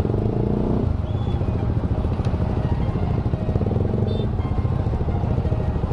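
Motorcycle engine running in slow, congested traffic, a steady low rumble. Other engines swell briefly near the start and again about two-thirds of the way through.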